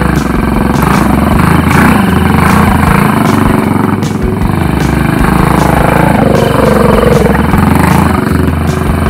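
Tillotson 225cc single-cylinder racing engine with a Super Pipe exhaust, powering a Trailmaster MB200 mini bike through a torque converter, running hard while ridden off road. Its pitch rises and falls again and again as the throttle is worked.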